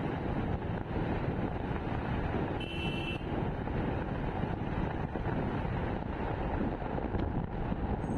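Steady rush of wind and road noise from a motorcycle underway at speed. A brief high-pitched tone sounds about two and a half seconds in.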